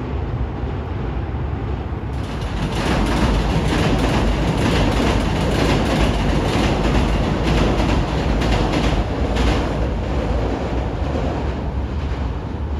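Hankyu electric commuter train crossing a railway bridge. Its wheels rumble, and a run of clacks comes from the rail joints. The sound grows louder about two seconds in and eases near the end as the train moves away.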